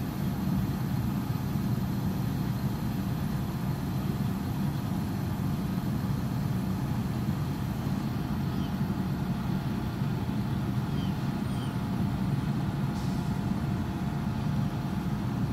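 Steady low mechanical rumble and hum of running machinery, unchanging throughout.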